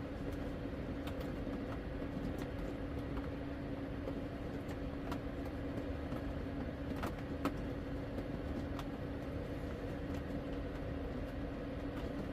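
Steady hum of a small blower fan running, with a low hiss under it and a few faint clicks over it.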